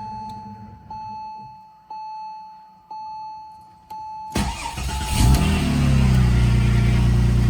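A car's warning chime dings about once a second, then about four seconds in the 2002 Porsche 996 Twin Turbo's twin-turbo flat-six cranks and fires on a cold start, flares up and settles into a steady high idle.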